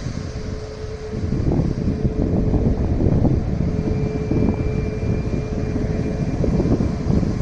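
Boeing 737 MAX 8-200's CFM LEAP-1B jet engines at takeoff thrust: a loud rumble with a steady tone through it, growing louder about a second in.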